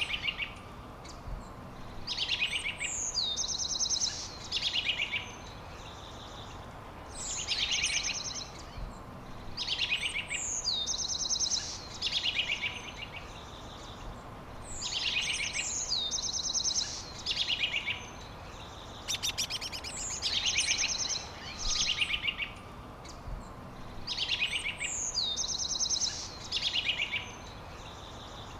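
A songbird repeats the same short song phrase about every two seconds. Each phrase opens with a high downward slide and ends in a rapid, buzzy trill. A steady background hiss runs underneath.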